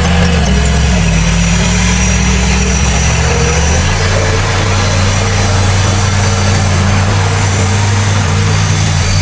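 Heavy diesel engines of a bulldozer and dump trucks running steadily, with the engine note shifting about four seconds in.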